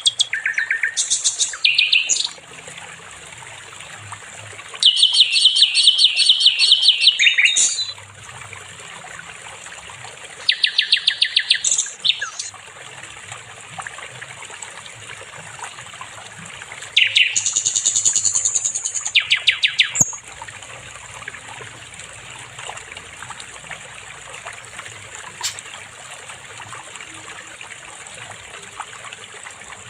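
A songbird singing rapid, buzzy trills in four bursts of two to three seconds each, then falling silent after about 20 seconds, over a steady background of trickling water.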